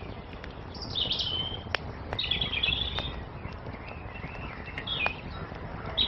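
Small songbirds chirping in short bursts of song over a wood fire crackling, with a few sharp pops from the burning wood and a steady low hiss of the flames beneath.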